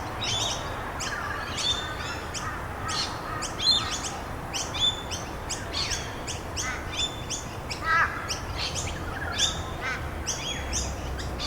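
Several wild birds chirping over a steady background hiss: a busy run of short, high, repeated calls, with a lower, quickly repeated call about eight seconds in.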